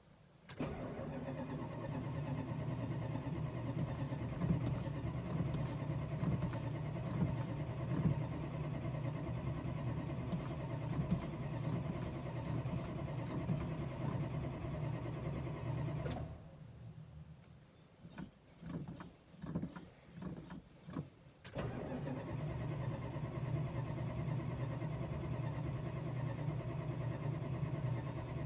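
A Chrysler's starter cranking the engine over and over without it catching. One long crank of about fifteen seconds, then a pause broken by a few short bursts, then it cranks again.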